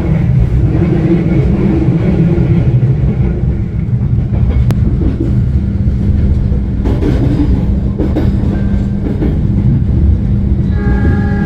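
Indonesian passenger train running along the track: a steady low rumble of the carriage with a few short knocks. Near the end a steady pitched tone with several notes starts up.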